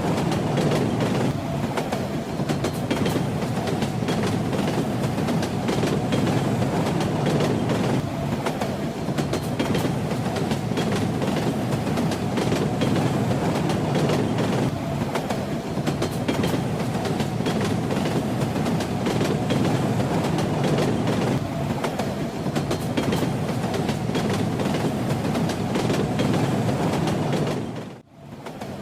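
Train wheels clattering over rail joints under a steady rolling rumble, as heard on a train in motion. Near the end the sound drops away for a moment and comes straight back.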